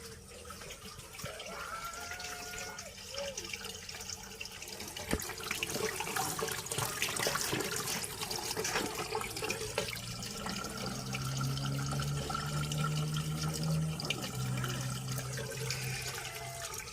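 Water running and splashing, as from a kitchen tap into a sink, with scattered light clicks. A low hum joins about ten seconds in and fades near the end.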